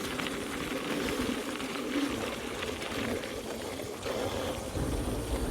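Motorcycle engine running while riding over rough ground, heard as a steady hum with a noisy haze over it. A low rumble swells near the end.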